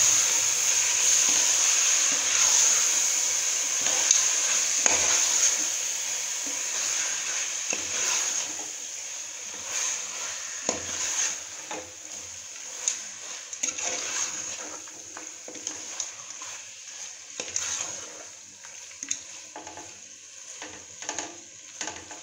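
Marinated chicken frying in tomato-onion masala in a pressure cooker, sizzling as a spoon stirs it and scrapes and clinks against the pot. The sizzle is loud at first and fades through the second half, leaving mostly scattered scrapes and knocks of the spoon.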